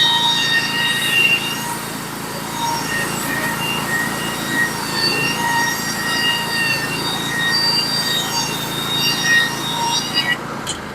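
Norwood HD36v2 portable bandsaw mill sawing through a log: the band blade whines with several shifting high tones over the engine running under load. Near the end the whine cuts off suddenly as the blade leaves the cut, and the engine keeps running.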